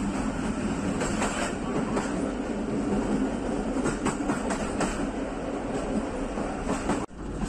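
Passenger train coach running along the track: a steady rumble with wheels clicking over rail joints here and there. The sound drops out for an instant near the end.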